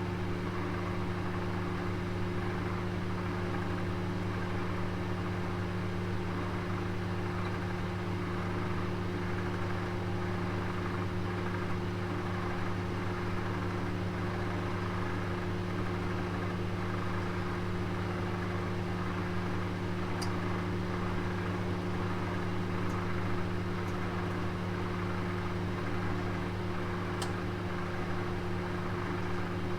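Oven running with a roast inside: a steady hum with a fan-like whir. A few faint short ticks come in the second half.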